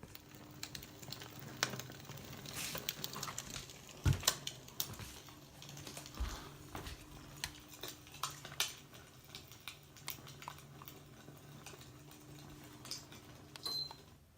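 Recorded crackling of burning firewood played through a small portable speaker: irregular pops and snaps over a faint low hum, cutting off near the end.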